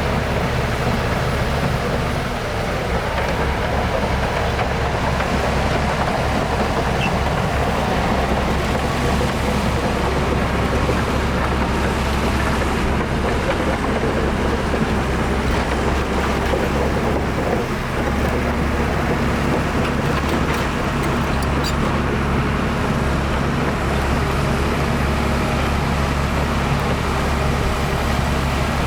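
Heavy diesel engine of earthmoving machinery (bulldozer or dump truck) running steadily in a low drone, with a brief dip a little past halfway.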